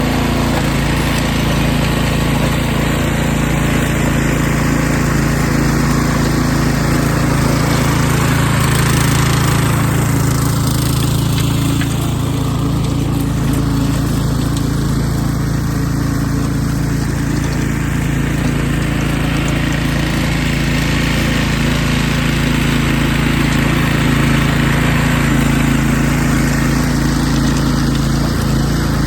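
Small gasoline engine of a garden tiller running steadily.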